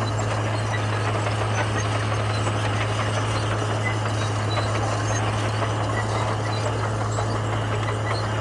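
Komatsu bulldozer's diesel engine running steadily: a constant low hum under an even mechanical noise.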